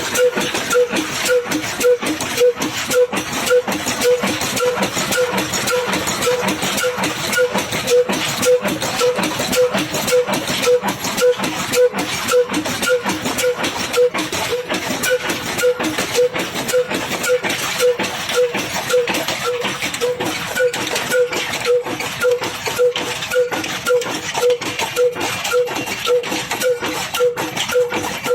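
Old single-cylinder Ruston Hornsby diesel engine running with a slow, even beat of about two a second, with mechanical clatter over it, as it drives a chaff cutter.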